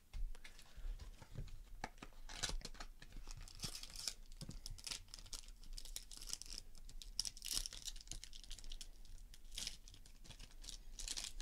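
Trading-card packaging being handled and torn open: a continuous run of small crinkles, crackles and short rips of plastic and paper.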